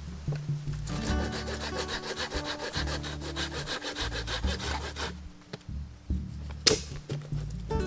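Hand saw cutting through dead wood in a quick, even run of strokes for about four seconds, then stopping. A single sharp crack follows about a second later. Faint background music with low held notes runs underneath.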